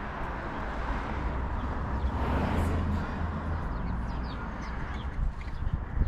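Outdoor noise with a steady low rumble that swells about midway and eases off again, with faint high bird chirps over it.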